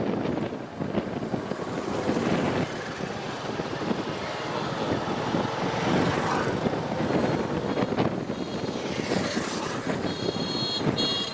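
Riding on a motorcycle: steady wind and road noise with the engine running underneath. Near the end a vehicle horn beeps in a few short blasts.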